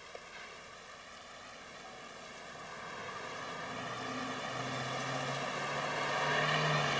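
An engine drone growing steadily louder over a background hiss. A steady low hum comes in during the second half and strengthens toward the end.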